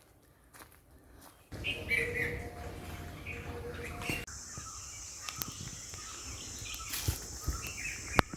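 Wild birds chirping and calling in woodland. From about four seconds in, a steady high-pitched whirring joins them, with a few soft thumps near the end.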